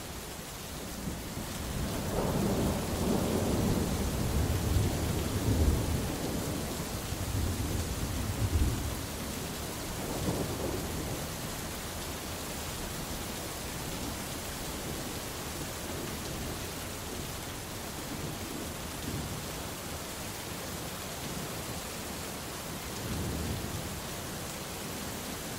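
Steady heavy rain with rolling thunder: a long low rumble builds about two seconds in and rolls on for several seconds, followed by shorter, fainter rumbles near the middle and near the end.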